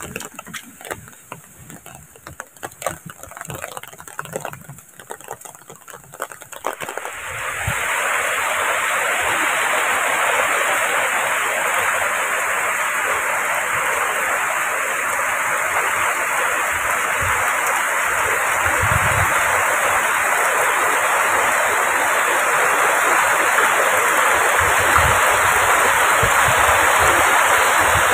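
Heavy tropical rain pouring down, a steady loud hiss that sets in suddenly about seven seconds in; before that, only scattered light taps of rain.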